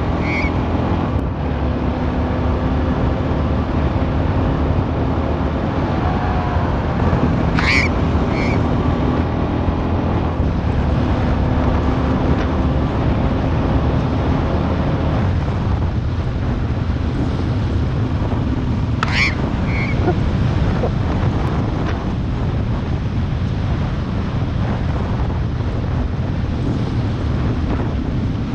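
Australian magpie swooping, giving a sharp call with a short second note three times, roughly ten seconds apart. Under it runs a steady rush of wind on the microphone and the engine of the moving vehicle.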